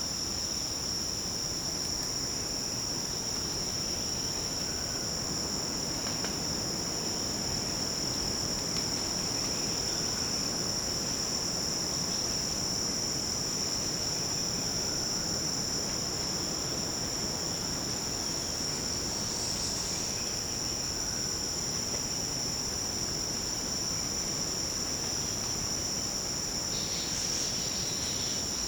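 Continuous forest insect chorus: a steady, high-pitched shrill at two or three pitches. There are a few faint short calls lower down, and two brief louder swells about two-thirds of the way through and near the end.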